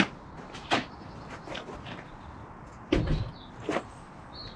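Knocks and clunks from an empty IBC water tank being handled and set in place: four sharp knocks, the loudest a dull thump about three seconds in.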